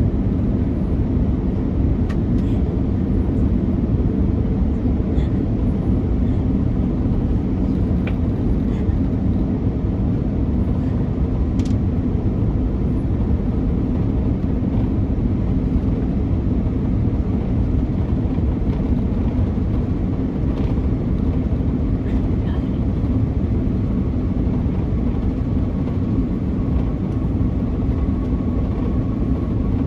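Steady cabin roar of an Airbus A330-300 with Rolls-Royce Trent 700 engines descending on approach: engine and airflow noise, with a few faint clicks and a faint high steady tone coming in near the end.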